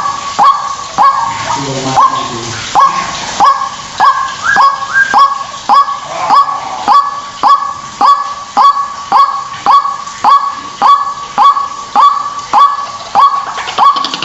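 White-breasted waterhen calling, a short harsh ruak note repeated evenly about twice a second, each note sweeping sharply upward in pitch.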